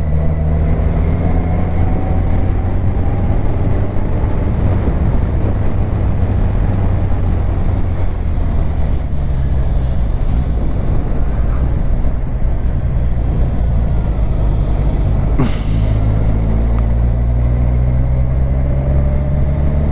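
Kawasaki Ninja 1000's inline-four engine running steadily while riding at road speed, a low drone under a dense rush of wind and road noise.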